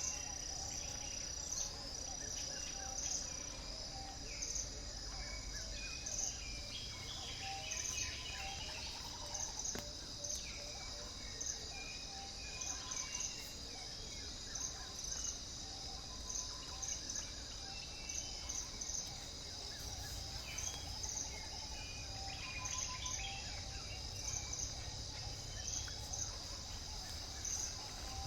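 Rainforest ambience: insects droning steadily in a high pitch, with repeated chirps and scattered bird calls over a low rumble.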